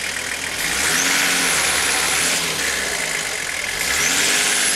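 Nissan Patrol 4x4's engine revved twice under load as it crawls over a steep gravel mound. Each rev lasts about two seconds and carries a high whine that rises and falls with it.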